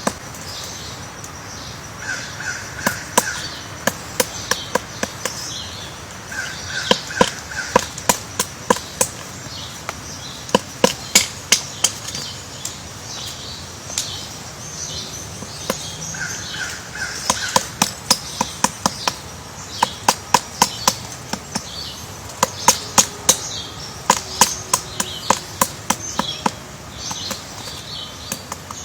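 Bird calls: repeated high chirps and short harsh calls in groups of three, over many sharp clicks coming in irregular runs.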